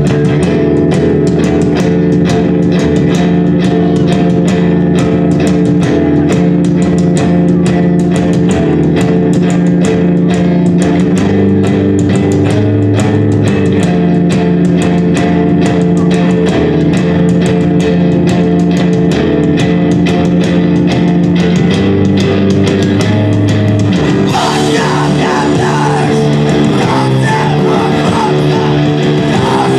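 A rock band playing live: a heavy guitar and bass riff over fast, steady drumming, with a voice coming in about three-quarters of the way through.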